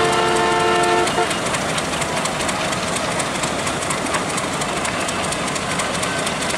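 A diesel locomotive's horn sounds a steady chord of several tones and cuts off about a second in. The train's running noise carries on steadily as it pulls slowly through the station yard points.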